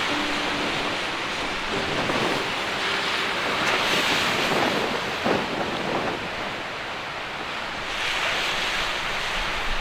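Big storm waves crashing on the coast while a strong mistral wind buffets the microphone, a continuous roar that swells about four seconds in and again near the end.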